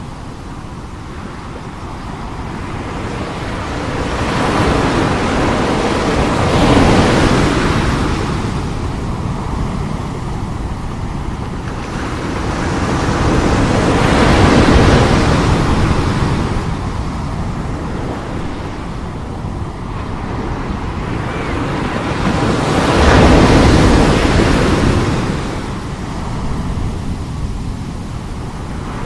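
Heavy sea surf breaking in big waves. Three waves build and crash about eight seconds apart, each a swelling rush of water that then washes back.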